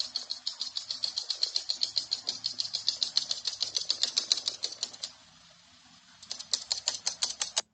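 Rapid, evenly spaced clicking, about eight clicks a second. It stops for about a second near the end, then starts again.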